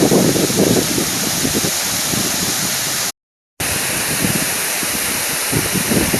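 Waterfall rushing, a steady loud wash of falling water with an uneven low rumble under it. The sound cuts out completely for about half a second just after the middle, then resumes.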